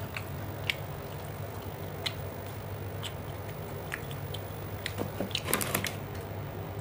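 A person chewing food with small wet mouth clicks, a quick run of clicks a little past five seconds in.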